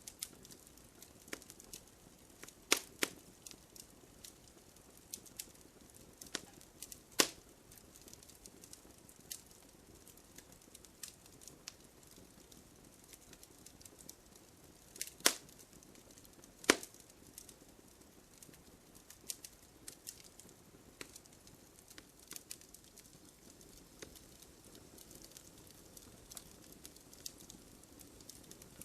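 Wood fire crackling: irregular small pops and ticks over a faint hiss, with a few louder snaps of burning wood, four of them standing out.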